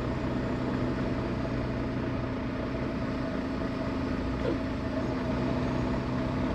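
Steady drone of a semi truck's engine with road and tyre noise, heard from inside the cab while driving on the highway.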